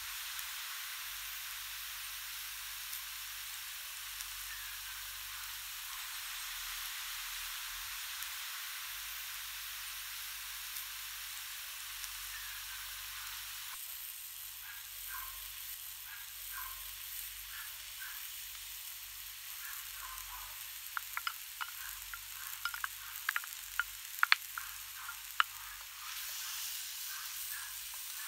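Chicken and vegetables sizzling in a metal wok, a steady frying hiss that eases a little about halfway through as a red sauce goes in. From about three-quarters of the way in, a wooden spoon stirs the pan, knocking and scraping against the metal in a run of sharp clicks.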